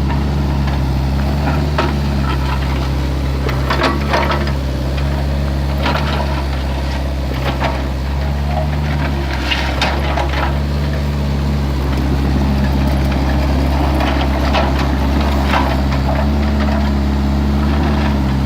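Excavator's diesel engine running steadily, with scattered knocks and scrapes as it digs.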